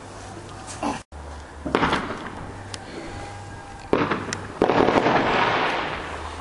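Fireworks exploding: separate bangs about a second and a half in and near four seconds, then a longer, louder burst from about four and a half seconds that slowly dies away.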